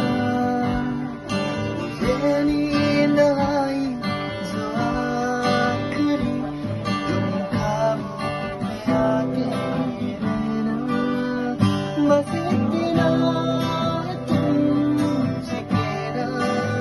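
Song with a voice singing to a strummed acoustic guitar, playing without a break.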